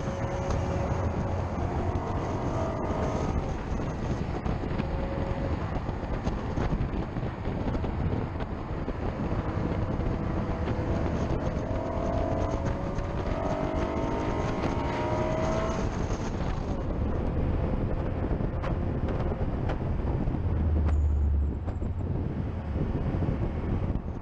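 Car engine at track speed, its revs climbing again and again through the gears, over steady wind and tyre roar on a low-mounted action camera.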